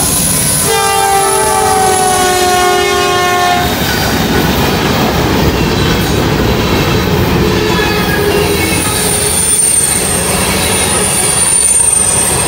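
Norfolk Southern freight locomotive's air horn sounding a chord as the lead units pass, its pitch dropping as they go by, then cutting off a little under four seconds in. After that come the rumble of the locomotives and covered hopper cars rolling past, and a high, thin wheel squeal from about eight seconds in.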